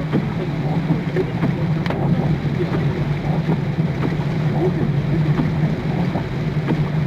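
Heavy rain pattering on a car's roof and windshield, heard inside the cabin through a dashcam's microphone over a steady low drone from the moving car.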